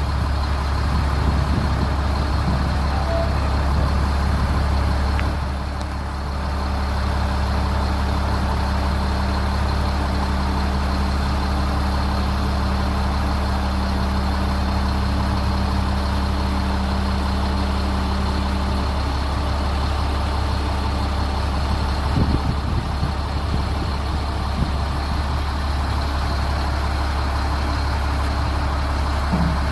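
Diesel engine of a dump truck running steadily: an even, deep drone, with a higher steady tone that drops out about two-thirds of the way through.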